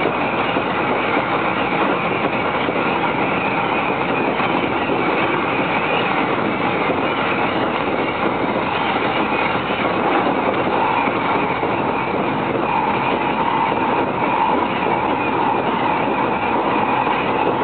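A JR East Narita Line commuter train running at speed, heard from inside the carriage: a steady rumble of wheels on rail. A steady higher tone joins it about ten seconds in.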